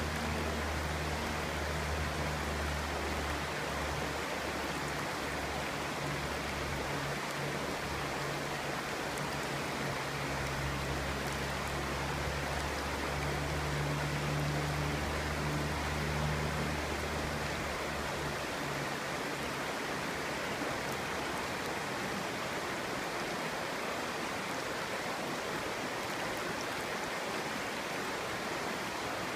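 Clear stream running, a steady rush and babble of water. A low hum underneath fades out a little past halfway.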